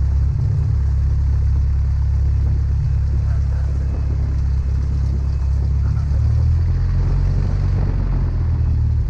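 Cessna 172 piston engine and propeller running at taxi power, a steady low drone whose pitch shifts slightly about six seconds in.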